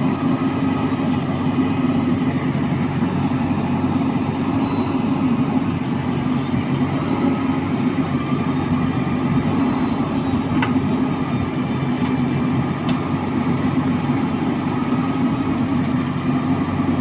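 Large diesel engine running steadily at an even speed, with no revving.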